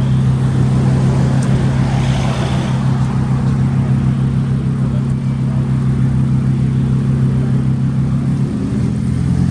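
A car engine running steadily at a held speed, with an even, droning note; near the end its note changes as the engine begins to rev.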